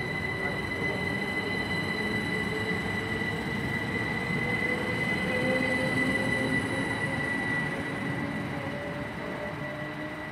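Two coupled Class 387 electric multiple units pulling away, their traction motors giving a whine that rises slowly in pitch over a steady high tone and running-gear rumble. The sound fades away near the end.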